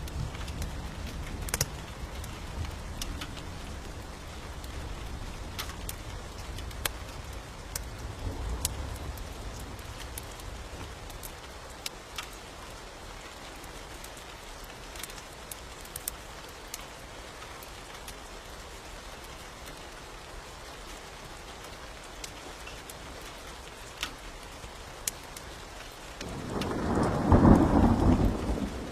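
Steady rain with scattered sharp crackles, a low thunder rumble through the first several seconds, and a loud thunderclap rolling in near the end.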